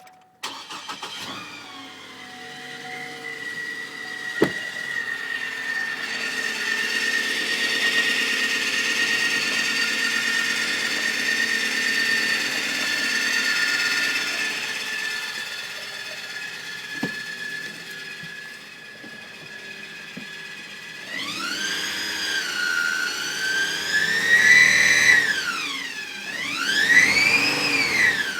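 Hummer H3 on a cold start with a loud, high-pitched whine from the transmission's flex plate area, steady for about twenty seconds, then rising and falling in pitch twice near the end. The whine comes from a failing torque converter and transmission oil pump.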